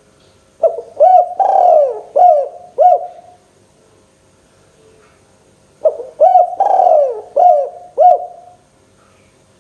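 Spotted dove (tekukur) cooing: two phrases about five seconds apart, each a run of short rounded coos with one longer, drawn-out coo in the middle.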